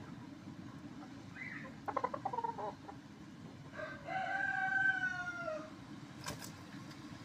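Lakenvelder rooster crowing once, a long call of about two seconds that falls away at the end, after a short burst of clucking about two seconds in. A sharp click follows near the end, over a steady low background noise.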